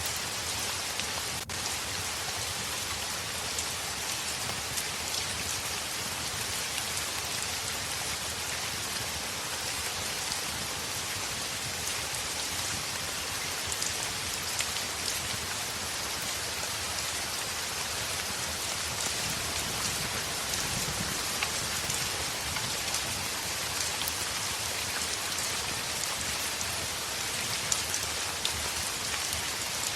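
Steady heavy rain falling on a window glass, an even hiss of rain with scattered sharp drop ticks. A single short click sounds about a second and a half in.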